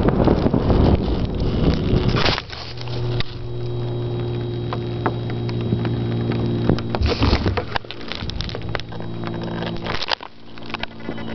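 Wind rushing over the RC plane's onboard camera. About two seconds in it drops away, leaving a steady small electric motor hum with scattered clicks and knocks.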